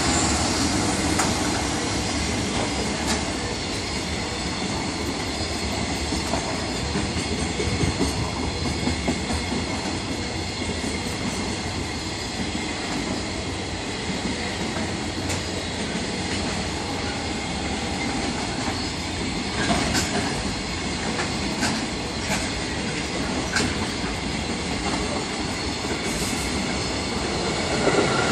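Freight train rolling past, its wagons giving a steady rumble with occasional sharp clicks.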